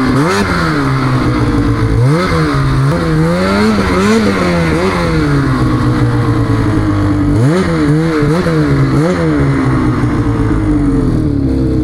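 Snowmobile engine under way, the throttle blipped on and off so the pitch keeps rising and falling, with a steadier stretch in the middle and another run of blips later.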